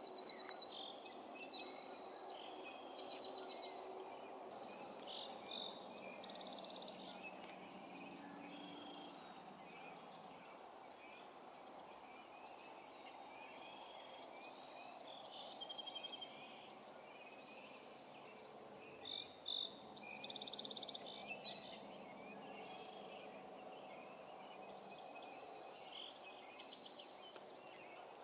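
Birds singing: short, high song phrases come and go, loudest right at the start and again a little past the middle, over a steady faint background noise.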